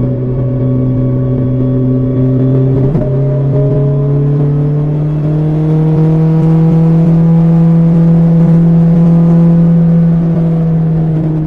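BMW S1000XR's inline-four engine through an Akrapovic exhaust, running under way at steady revs. A short click about three seconds in, then the engine note climbs slowly as the bike accelerates and eases off near the end.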